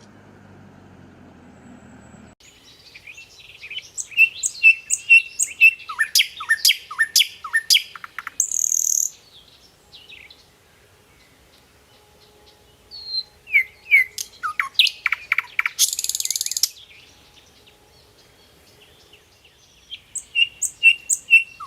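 A songbird singing three phrases of rapid chirps and quick downward-sweeping notes, the first two phrases ending in a harsh buzzy note. A low steady noise in the first two seconds cuts off before the song starts.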